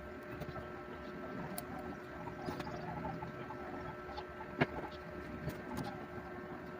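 A steady electrical hum with small scattered clicks and taps, one sharper click a little past halfway.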